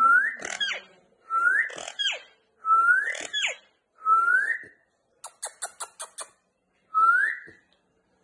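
Pet parrot repeating a short whistled phrase about every second and a half, a rising whistle often followed by a quick falling note. Partway through it gives a fast run of about seven clicks, then the rising whistle once more.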